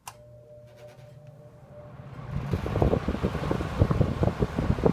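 Windsor (Lakewood) C-122 12-inch metal-bladed box fan with a GE motor, switched on at high: a click, then a low motor hum. About two seconds in, the blades come up to speed and a loud rush of air builds, buffeting the microphone.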